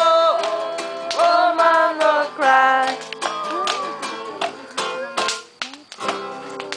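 A small group singing along to a strummed acoustic guitar. A long sung note is held, and the singing fades out about three seconds in while the guitar strums on. The guitar stops about five and a half seconds in, followed by a few sharp taps.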